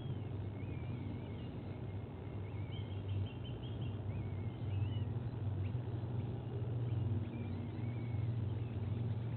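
A steady low engine-like hum under scattered small bird calls: short chirps and thin rising and falling whistles, with a brief trill about three seconds in.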